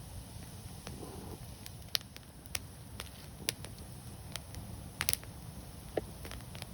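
Wood fire crackling: irregular sharp pops and snaps over a steady low rumble, with a quick cluster of pops about five seconds in.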